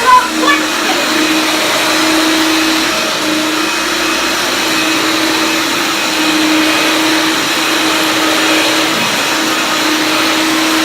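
1975 Hoover Dial-a-Matic upright vacuum cleaner with power drive running steadily. Its motor hum wavers every second or so.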